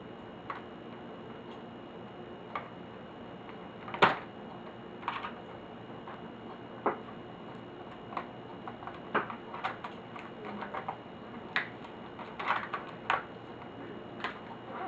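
Scattered light clicks and taps of an HP Pavilion dv6000-series laptop's plastic and metal parts being handled during disassembly, at irregular spacing, with one louder knock about four seconds in and the clicks coming more often in the second half.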